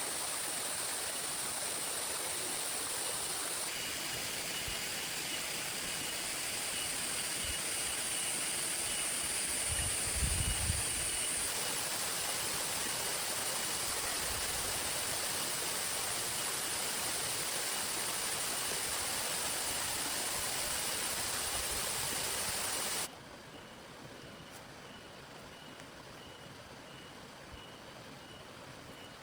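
Steady rush of heavy rain and falling water, with a brief low rumble about ten seconds in. About twenty-three seconds in it cuts suddenly to a much quieter steady rain hiss.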